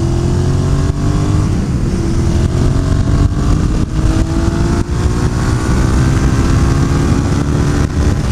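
Suzuki SV650S V-twin motorcycle engine accelerating under way. Its pitch climbs steadily, drops back twice as the rider shifts up, and climbs again, over a rumble of wind on the helmet microphone.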